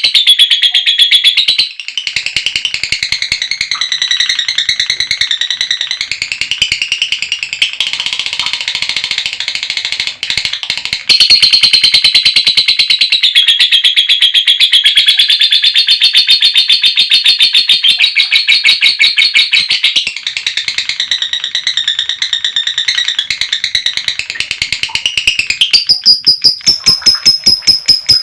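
Female lovebird's long, unbroken 'ngekek' chatter: a loud, high, rapid buzzing string of notes that shifts pitch several times. It breaks off briefly twice and turns to sharper, more spaced pulses near the end.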